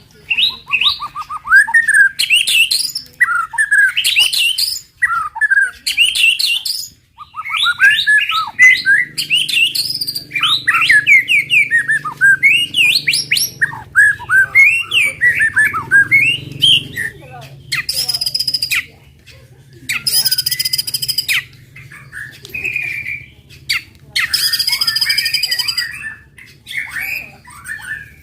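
White-rumped shama singing a fast run of varied whistled notes and rising and falling phrases. From about two-thirds of the way in, it switches to repeated harsh, buzzing rattles: the rapid 'tembakan' bursts used to stir other shamas to sing.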